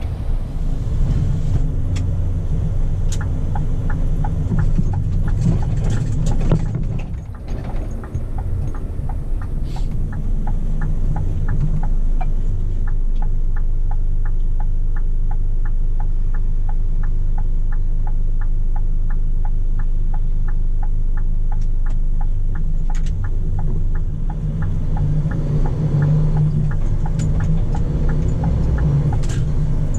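Scania P400 truck's diesel engine running steadily, with a regular ticking at about two ticks a second over it.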